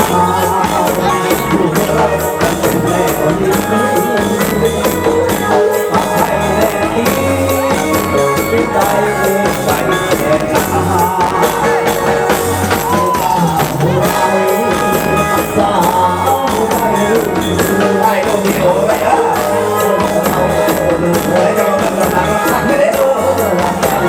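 Live Thai ramwong dance-band music: a steady drum beat with busy jingling percussion and a wavering melody line over it.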